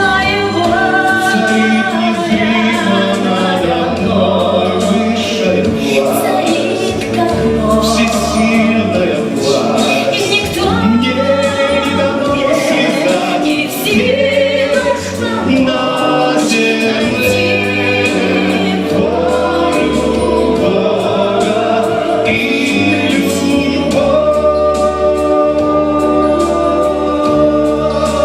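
A song: voices singing over steady instrumental backing.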